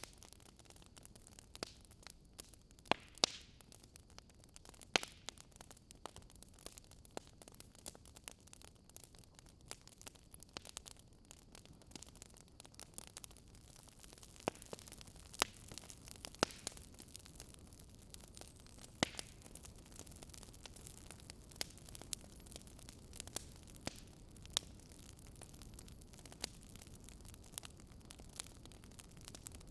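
Wood fire crackling in a fireplace: irregular sharp pops and snaps over a low steady hiss, with a handful of louder pops.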